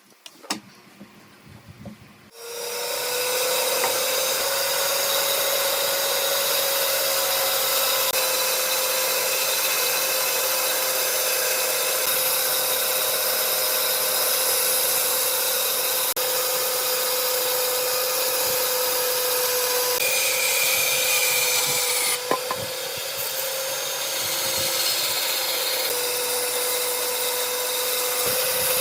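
A few light knocks, then about two seconds in an electric power tool starts and runs steadily against wood, a steady motor hum over a dense rasping hiss.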